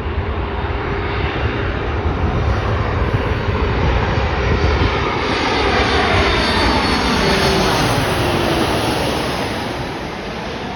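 Boeing 737 MAX 8 jet airliner's engines roaring as it passes close by. The roar builds, then a whine falls in pitch as the plane goes past, and the sound fades near the end.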